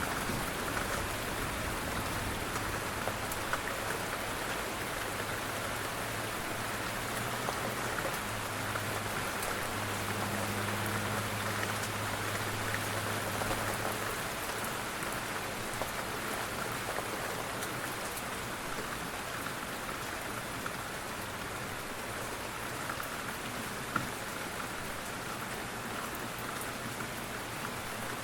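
Steady rain falling, an even hiss of drops on surfaces with scattered individual drop ticks and one sharper tick near the end. A faint low hum runs underneath.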